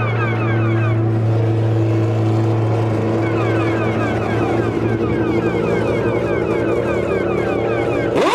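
Formula One car engines running steadily, with repeated short falling pitch sweeps. Near the end one car goes past close by, its note rising sharply and then falling away.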